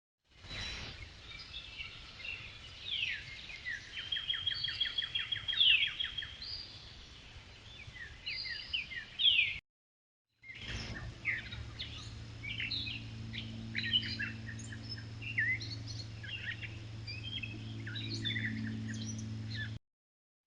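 Songbirds chirping and singing, many short rising and falling notes with a rapid trill of repeated notes about four seconds in. The sound cuts to silence for a moment about ten seconds in, and after that a steady low hum runs under the birdsong.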